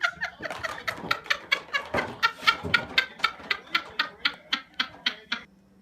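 A small animal giving a fast run of short, squeaky, pitched calls, about four a second, that cuts off abruptly near the end.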